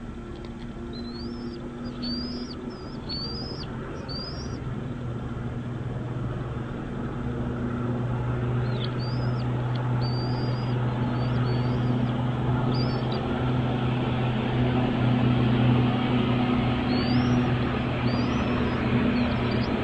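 Birds chirping in short, rising, high-pitched notes, repeated in clusters, over a steady low engine hum that grows louder throughout.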